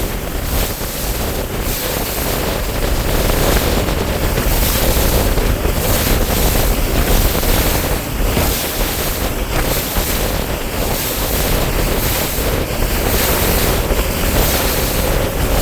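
Wind buffeting the microphone aboard a bass boat on open water, with steady wave and water noise against the hull.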